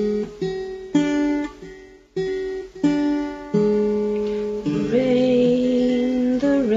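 Music: an acoustic guitar strumming a sequence of chords, each struck sharply and left to ring. From about five seconds in, a voice holds a sung note over a sustained chord.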